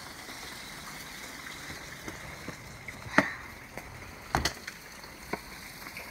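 Steady rain hiss, broken by a few sharp knocks, the loudest about three seconds in and others about four and a half and five seconds in.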